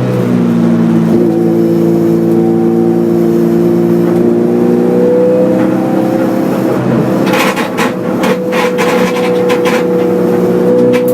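Hyundai Excel race car's 1.5-litre four-cylinder engine pulling hard at fairly steady high revs, heard from inside the cabin; the pitch dips briefly and climbs again about two-thirds of the way through. A quick run of sharp knocks and rattles comes just after the dip.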